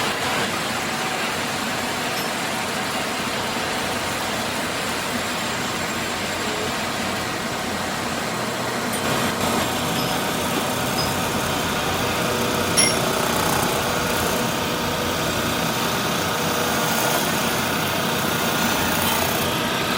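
Steady factory machinery noise, a dense hum and hiss with faint steady tones, broken by a sharp click about two-thirds of the way through and a few lighter ticks shortly before it.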